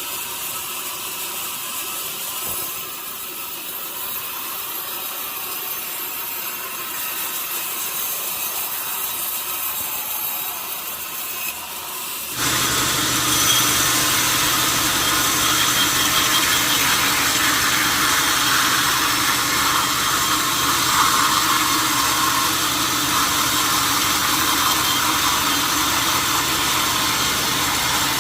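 Sawmill machinery running, a steady mechanical hiss at first. About twelve seconds in, the sound jumps abruptly louder and fuller, with a steady engine drone beneath the noise.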